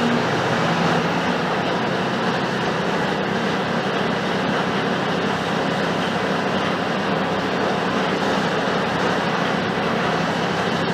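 Mercedes-Benz OF-1721 bus's four-cylinder turbodiesel running steadily, with a dense, even rumble and road noise.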